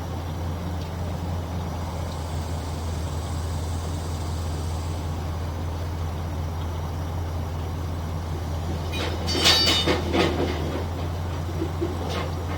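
A steady, low engine hum, with a short burst of clattering, metallic knocks about nine to ten seconds in and a lighter knock near the end.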